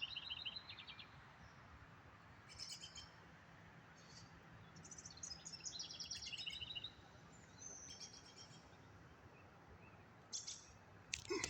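Songbirds singing: short phrases of quick repeated high notes, a few seconds apart, over a faint steady hiss.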